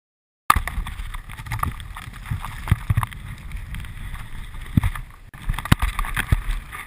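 Low rumbling background noise with scattered knocks and thumps, starting about half a second in and dropping out for a moment around five seconds.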